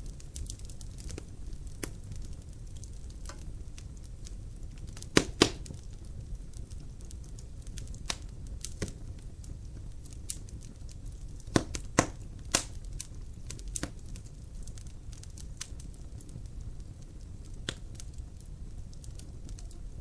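Wood fire crackling in a fireplace: a steady low rumble of flames with frequent sharp pops and snaps, the loudest ones coming in pairs about five seconds and about twelve seconds in.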